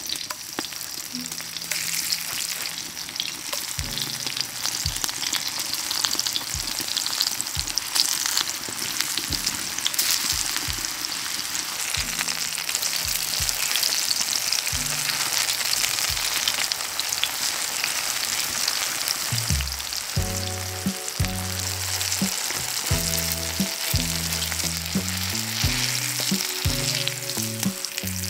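Battered green tomato slices frying in hot oil: a steady sizzle with fine crackling. Background music with low stepping notes comes in about twenty seconds in.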